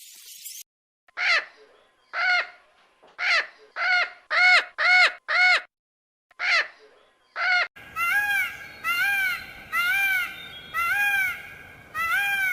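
A bird calling over and over in short calls, each rising and then falling in pitch, about one to two a second. From about eight seconds in, a steady hiss of background noise runs under the calls.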